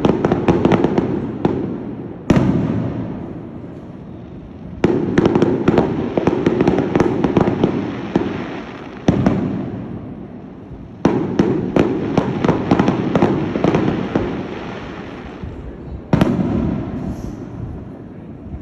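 Fireworks display: volleys of rapid aerial shell bangs and crackle. Each volley starts suddenly and fades over a second or two, and a new one breaks out every few seconds, five times in all.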